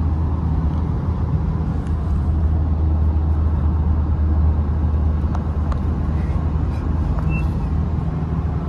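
Steady low drone of a Changan Hunter pickup truck's engine and road noise, heard from inside the cab.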